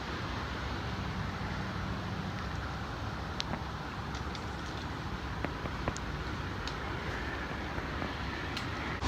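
Steady rain falling, heard as an even hiss with scattered light ticks.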